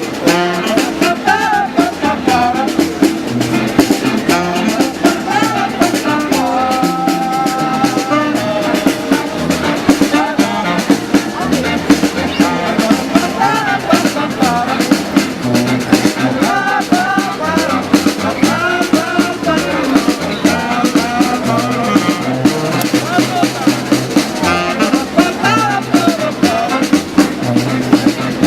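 Street band playing an upbeat tune: a drum kit keeps a steady beat under a wavering melody line, with one note held for about a second and a half a quarter of the way in.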